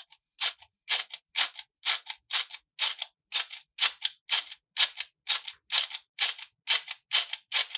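Sharp plastic clicks of a toy being worked, about two a second in an even rhythm, some seventeen in all.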